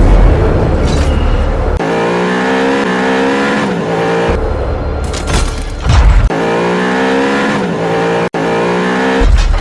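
Edited soundtrack of car-engine revving sound effects over bass-heavy music, switching abruptly between deep bass stretches and pitched engine-like tones that glide up and down.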